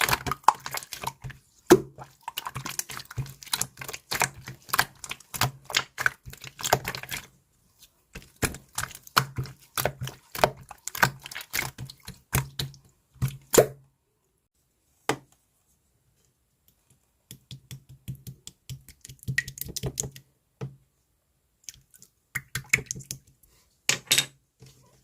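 Rapid, irregular clicking and tapping, like typing. The clicks stop for about three seconds just past the middle, then come back in sparser runs.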